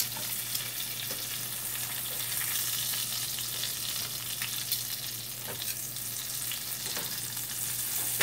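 Breaded chicken pieces sizzling steadily as they shallow-fry in a little oil in a nonstick pan, with a few faint clicks scattered through.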